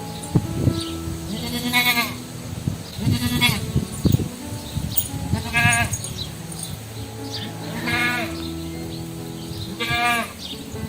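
A farm animal bleating five times, roughly every two seconds, each call short and wavering. Background music with steady held notes plays underneath.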